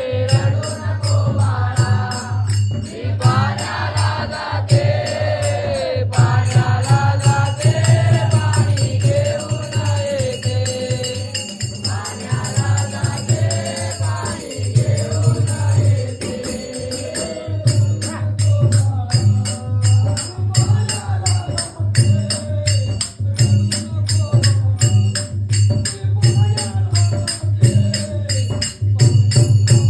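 Marathi song: a singing voice carries a melody over a steady beat with a heavy bass pulse and quick, evenly spaced high percussion ticks.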